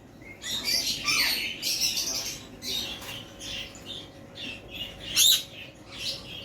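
Many caged birds squawking and chirping over one another in short, high calls, with one loud, sharp call about five seconds in.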